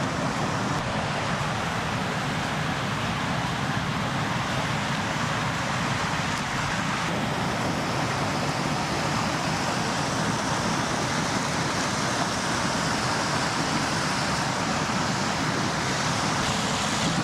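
Steady rushing of a river's flowing water, an even hiss that holds at one level throughout.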